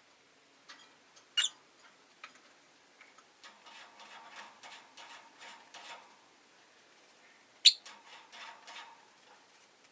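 Rosy-faced lovebird giving two short, sharp chirps, one about a second and a half in and one near eight seconds, with runs of soft, rapid clicks between them.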